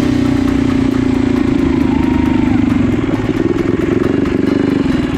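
Mini bike engine running at steady high revs under load, its pitch wavering a little after about three seconds as the throttle eases.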